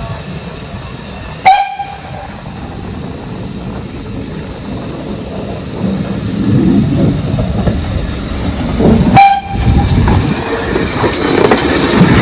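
Steam locomotive giving two short whistle toots, one about a second and a half in and one about nine seconds in, over the rumble of the train. The rumble grows louder from about six seconds as the train draws nearer.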